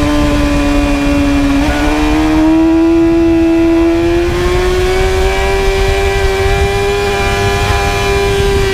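Inline-four sport bike engine at high revs under way. Its pitch sags slightly, steps up about one and a half seconds in, then climbs slowly. Wind rushes over the microphone underneath.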